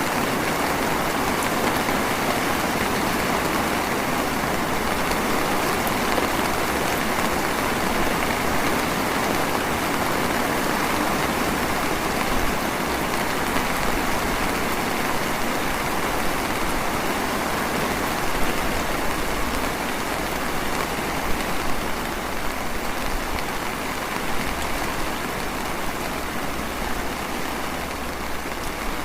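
Steady light drizzle falling, an even hiss of rain, with a few louder drop hits in the second half.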